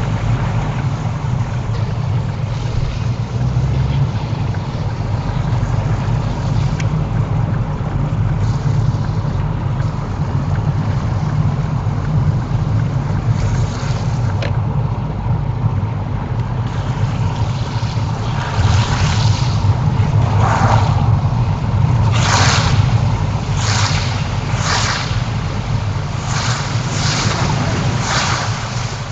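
Cars driving through deep floodwater on a road, their tyres throwing up spray in a run of short splashing rushes in the last third, over a steady low rumble of traffic and wind on the microphone.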